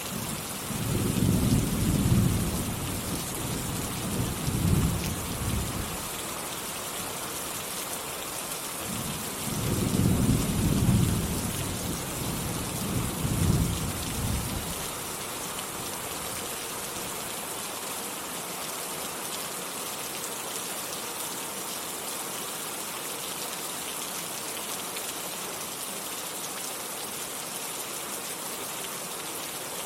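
Steady rain falling, with thunder rolling twice in the first half, each a low rumble of several seconds; after the second roll only the rain continues.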